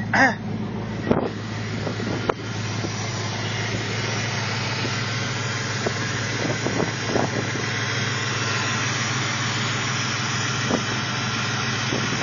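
Ford V8 idling steadily, with no exhaust fitted after the Y-pipe behind the catalytic converters yet running fairly quietly. A few sharp knocks come in the first couple of seconds.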